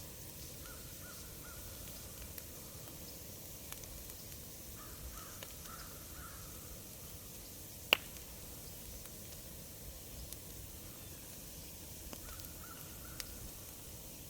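Crows cawing in three short runs of repeated caws. A wood fire crackles underneath with sharp pops, the loudest a single pop about eight seconds in.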